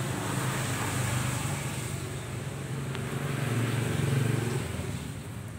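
A motor vehicle engine running steadily in passing traffic, growing louder to about four seconds in, then dropping away.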